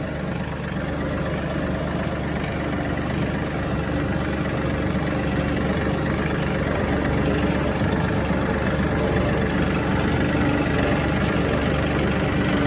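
A John Deere tractor's diesel engine runs steadily as the tractor drives off, getting slightly louder as it goes.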